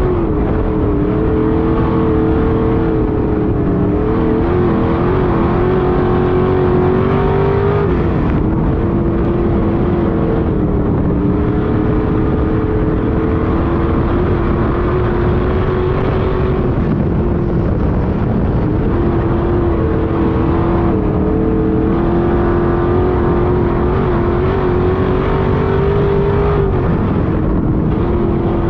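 Street stock race car engine running hard under racing load. Its pitch climbs slowly, then falls sharply when the throttle is lifted, which happens twice, about 8 and 27 seconds in.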